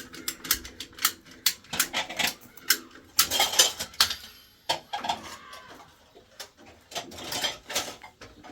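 Irregular clattering knocks and clicks, as of hard objects being handled and struck, thinning out in the second half.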